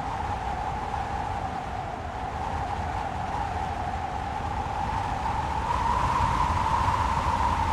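Strong wind howling: a steady hollow whoosh over a low rumble, rising slightly in pitch and growing louder about six seconds in.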